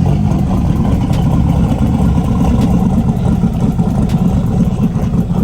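Car engine running with a loud, steady, low rumble.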